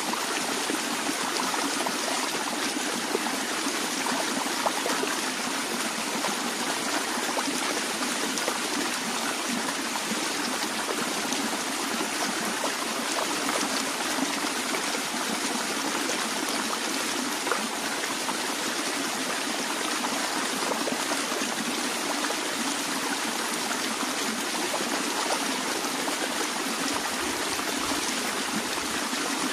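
A small stream of water flowing steadily, splashing and trickling, with no pauses or changes.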